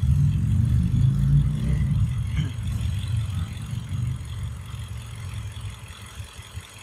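Toyota Camry dual VVT-i engine idling just after its VVT-i cam phaser unit was replaced, running without the knocking it had before. The low running sound is strongest over the first few seconds and then eases off.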